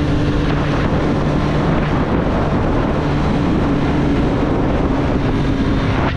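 2024 Triumph Street Triple's inline three-cylinder engine running at steady revs while riding, with wind rushing over the microphone.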